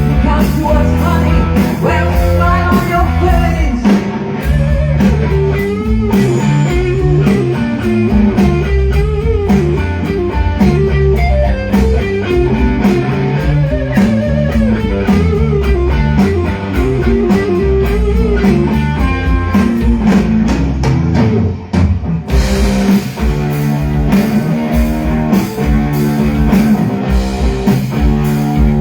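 Rock band playing live, a blues-rock number with an electric guitar over bass and drum kit; the melody line bends up and down through the middle, and the band drops back for a moment about 22 seconds in before coming in full again.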